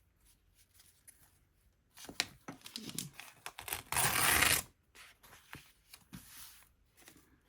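Paper and craft materials handled on a work table: rustling and small clicks, then a short, louder tearing sound about four seconds in.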